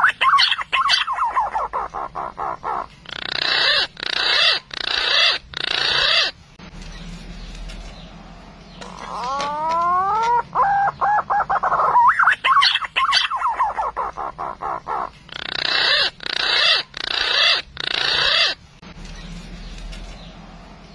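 Green pigeon (punai) call played as a hunting lure. Rising whistled glides lead into a fast run of whistled notes, then four rough, noisy bursts. The same sequence repeats twice, as a looped recording does.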